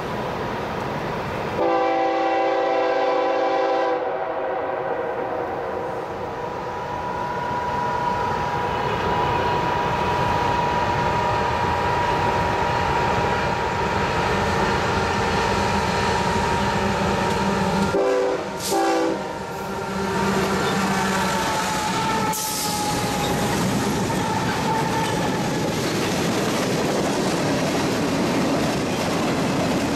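CSX freight locomotive sounding its multi-note horn as it approaches: a long blast about two seconds in and two short blasts a little past halfway, the horn dropping in pitch as the locomotive passes. Then its boxcars roll by with the clickety-clack of wheels over rail joints, over a continuous rumble of the train.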